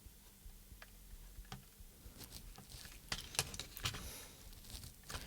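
Faint small clicks and taps of fingers handling the plastic parts and wire connectors of a small radio-control transmitter during reassembly, a few at first and then coming thick and fast from about two seconds in.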